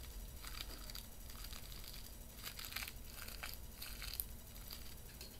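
Newspaper crumpling and rustling in irregular bursts as it is stuffed into a papier-mâché bird's leg.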